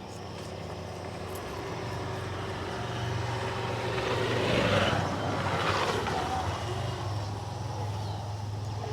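A motor vehicle passing by: a rushing noise that builds, peaks about halfway through and fades away, over a steady low hum.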